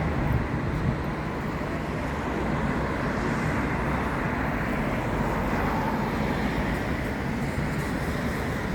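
Steady traffic noise on a city street.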